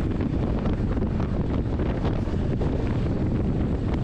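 Wind buffeting a microphone held outside a moving express train, over the steady rumble of the coaches running on the track.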